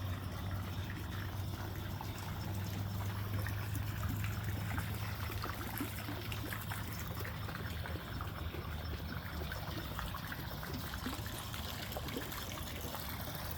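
Steady trickling, running-water noise over a low steady hum, with faint scattered ticks throughout.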